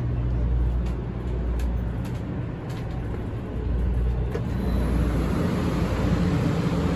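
Cabin running noise of a 500 series Shinkansen, a steady low rumble with a few light clicks. It grows louder about three and a half seconds in, as the end of the car and the vestibule by the gangway are reached.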